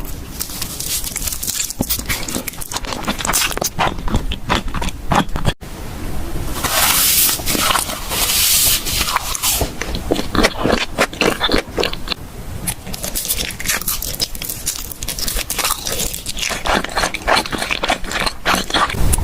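Close-miked ASMR eating sounds: rapid crunching, biting and crackling, with a stretch of hissy crinkling about seven to nine seconds in and a brief break about five and a half seconds in.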